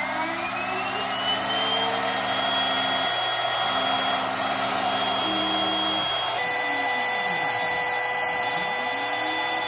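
CNC machine's cutting motor running under the program, a loud steady whine that finishes rising to speed in the first second or so. Beneath it, lower stepper-motor tones switch on and off and glide up and down as the axes move.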